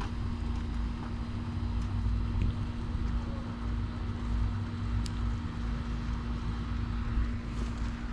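Wind rumbling on the microphone over a steady mechanical hum.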